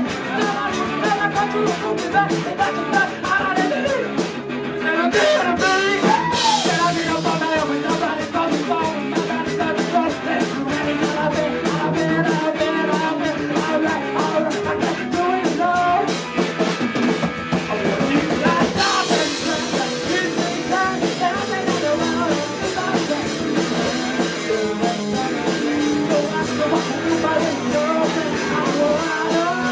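Live rock band playing loudly: drum kit with steady, evenly spaced cymbal strokes under electric guitars, a passage of the band's song with little or no singing.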